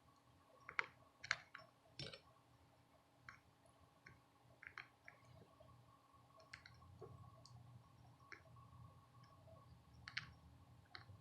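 Faint, irregular small clicks and taps of hand tools against a circuit board during hand soldering, several close together near the start and a few more spread through the rest, over a faint steady hum.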